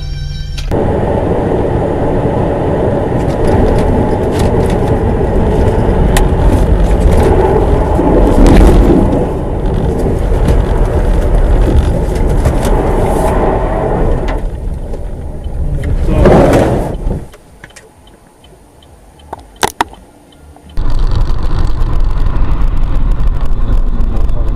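Dashcam audio of cars on the road: steady road and engine noise, swelling louder about 8 and 16 seconds in. It drops to a much quieter stretch with a few clicks, then loud road noise starts again abruptly.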